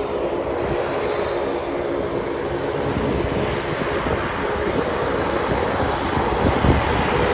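Propeller airliner's engines and propellers droning with a steady, even tone, growing slowly louder as the aircraft comes closer.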